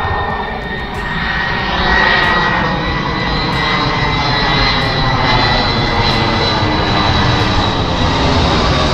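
Airplane passing low overhead on its landing approach: a loud, steady engine noise with a high whine.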